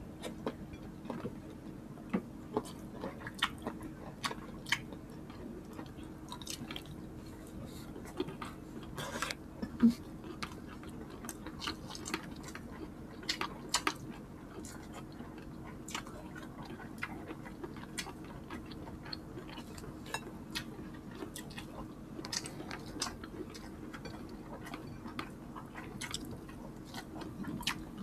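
Eating sounds from two people eating creamy chicken pastel and rice with their bare hands: irregular wet clicks of chewing and lip-smacking, with squelches of fingers in the sauce, over a faint steady hum.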